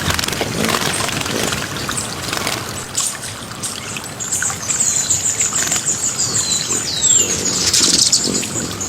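Water trickling steadily, like a small stream. About four seconds in, a small bird starts a rapid, high trill lasting a few seconds, then a couple of falling whistled notes and a quick high chatter.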